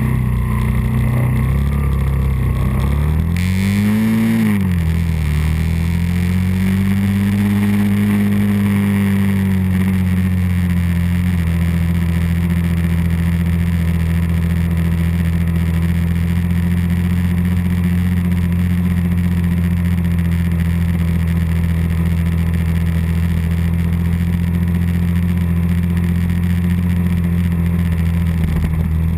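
Early-1980s Suzuki 125 motorcycle engine running under way, heard up close from the bike itself. The engine pitch climbs and then drops sharply about four seconds in, rises and eases off again, and from about eleven seconds on holds a steady drone.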